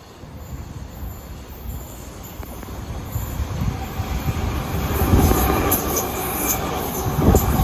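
Passenger train approaching through the station, its rumble growing steadily louder over several seconds, with a steady high tone coming in about halfway and a sharp knock near the end.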